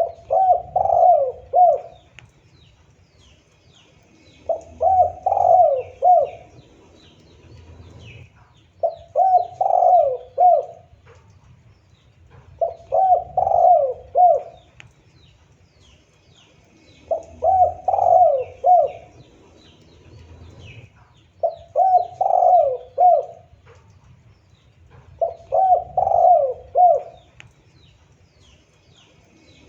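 Spotted dove (tekukur) cooing: a phrase of several quick coos repeated about every four seconds. Faint chirping of small birds sounds behind it.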